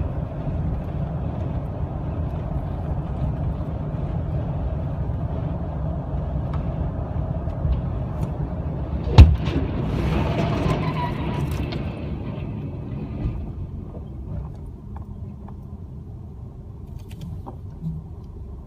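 Vehicle engine running with a steady low rumble. A single sharp, loud bang comes about halfway through, followed by a few seconds of rattling noise, after which the sound slowly fades.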